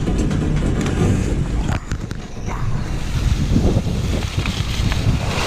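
Heavy wind buffeting the microphone during a downhill ski run, with a steady rumble and the hiss of skis on snow above it.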